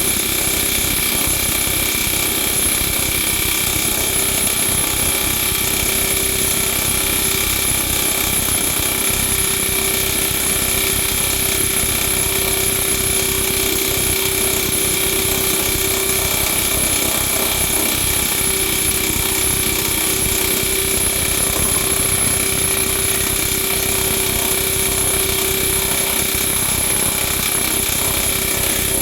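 Power hammer with a plunging die running continuously, striking sheet metal in a fast, even rattle of blows over a steady hum, to stretch out an area of a motorcycle tank panel.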